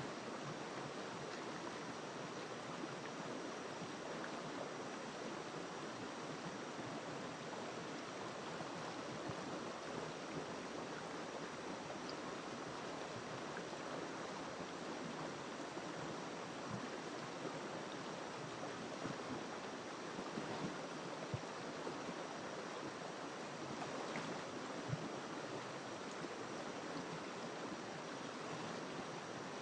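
River water flowing: a steady, even rush with occasional faint ticks.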